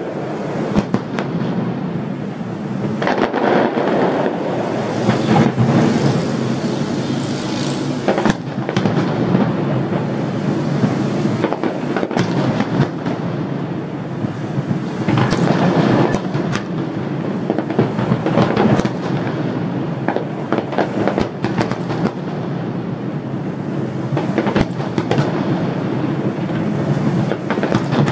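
Aerial fireworks display: a dense, continuous barrage of shells bursting and crackling, with sharp louder bangs standing out several times.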